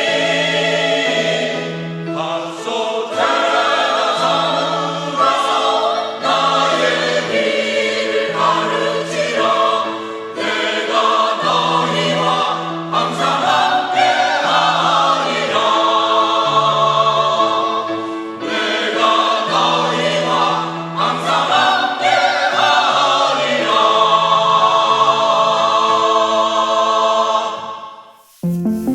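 Church choir singing a hymn in Korean with accompaniment, in long held chords; the singing stops shortly before the end.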